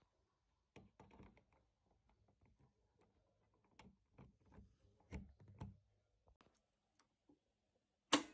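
Faint, scattered clicks and knocks of an upright Hoover Convertible vacuum cleaner being handled, with one sharp, louder click near the end, just before the motor starts.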